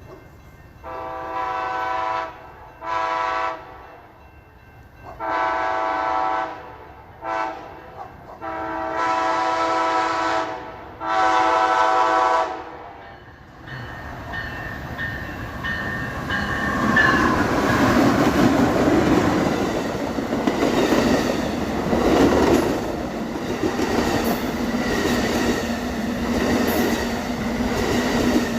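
Amtrak Coast Starlight locomotive sounding its multi-chime horn in a series of long and short blasts as it approaches. The train then passes close by with a loud rumble of wheels and rail clatter.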